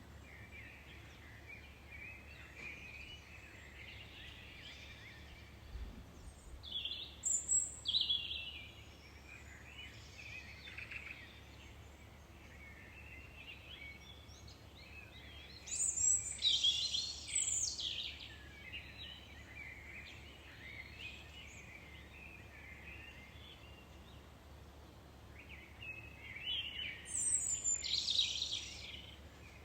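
Birdsong: a continuous chorus of small birds chirping, with a louder bird singing a short, high phrase three times, about every ten seconds, over a faint low background hum.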